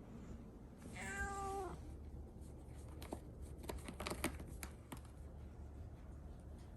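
A domestic cat meows once, a single call of just under a second about a second in. A run of light clicks and taps follows about two seconds later.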